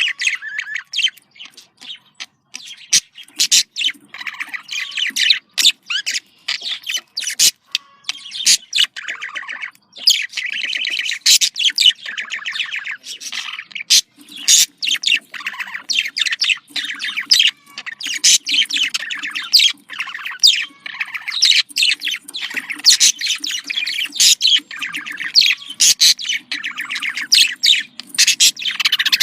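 Male and female budgerigars chattering and warbling, a busy, nearly unbroken stream of rapid chirps and trilled notes: the courtship chatter played to budgies to encourage breeding.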